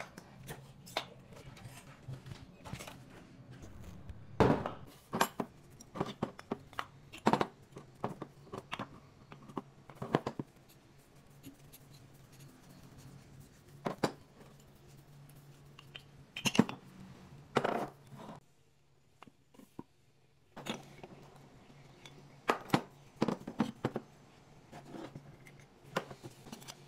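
Irregular sharp clicks, knocks and scrapes of hard objects being handled, over a faint steady low hum that drops out for about two seconds past the middle.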